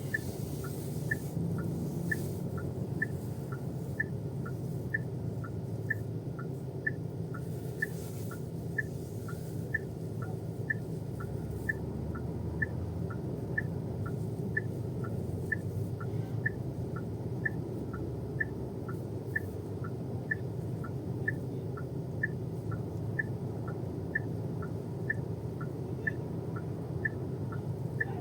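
Car turn-signal indicator ticking inside the cabin: an even tick-tock of two alternating clicks, about one pair a second, over the low hum of the engine and road.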